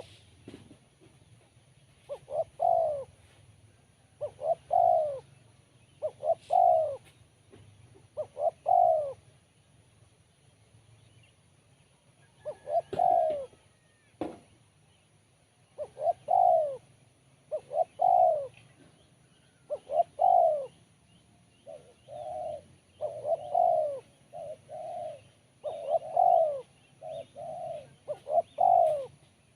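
Spotted dove (tekukur) cooing: repeated short coo phrases about every two seconds, with a pause near the middle. Toward the end the phrases come closer together.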